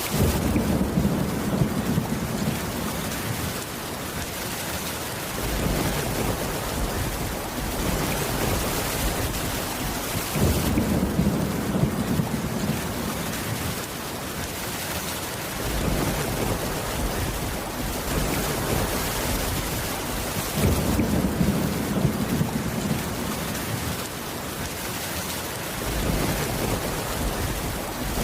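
Steady heavy rain with low rumbles of thunder swelling up about every ten seconds, three times.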